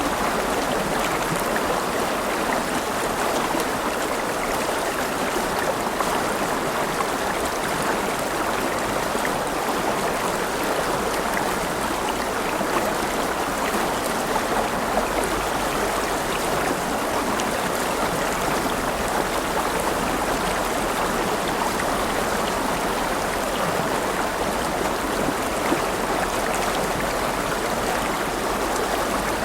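River water flowing over rocks: a steady rushing and babbling with no letup.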